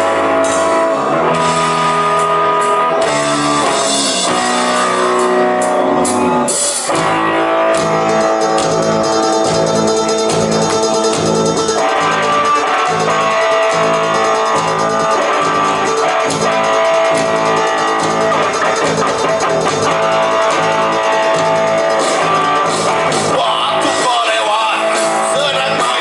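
Guitar-led rock song with a drum kit, a largely instrumental passage; the full band with a steady beat comes in about seven seconds in.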